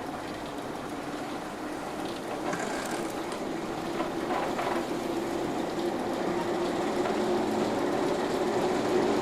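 Diesel train approaching along the track, its steady engine note and rail noise growing louder, with wheel clicks over rail joints starting near the end.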